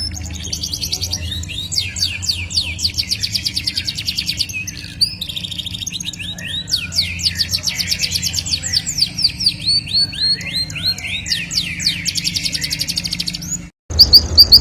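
A songbird singing long, rapid rolling trills of repeated downward-sweeping notes over a low steady hum. It breaks off suddenly near the end, and louder, sharper chirps begin.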